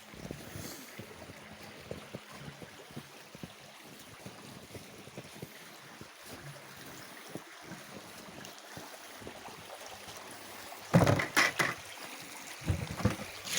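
Water running in a stream, with wind on the microphone. Near the end come a few louder handling knocks.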